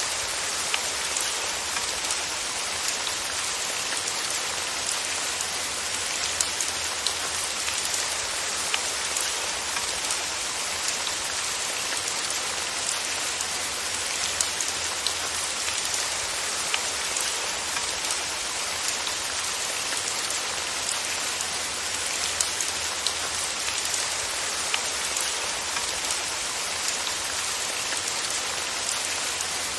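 Steady rain falling, an even hiss with many distinct drop ticks scattered through it.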